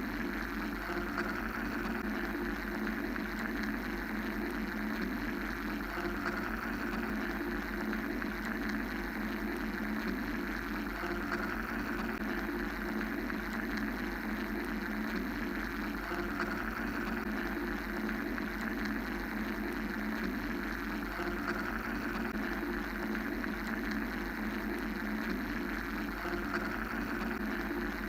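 Steady mechanical-sounding white-noise drone, a low rumble under a hiss that slowly swells and fades every few seconds.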